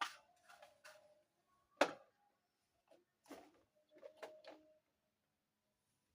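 Small plastic dollhouse furniture pieces being handled and set down: a series of sharp clicks and taps with brief plastic ringing, the loudest about two seconds in.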